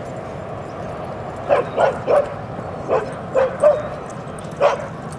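A dog barking: about seven short barks in quick bursts, starting a second and a half in, the last one alone near the end.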